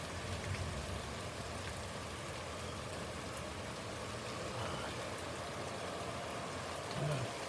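Heavy rain falling steadily, an even hiss with a faint low rumble at the start and a brief low thump near the end.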